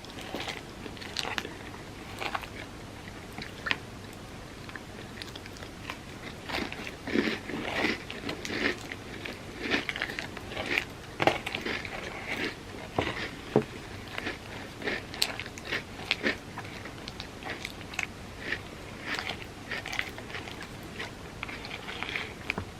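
Close-miked chewing and crunching while eating a Biscoff cookie sundae, with many quick, irregular mouth clicks and crunches that grow busier about six seconds in.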